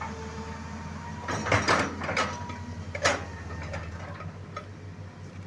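An engine running steadily, with a few sharp knocks or clanks about one and a half to two seconds in and again about three seconds in.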